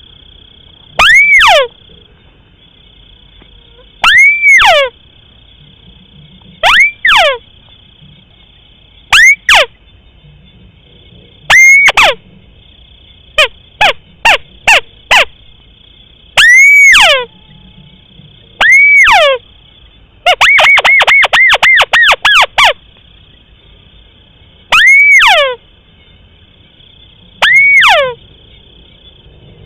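Recorded lure call of a rice-field crake (tikusan sawah): loud, separate calls that each arch up and sweep down in pitch, repeated every two to three seconds. A quick stuttering run of short notes about twenty seconds in. A steady faint high whine lies underneath.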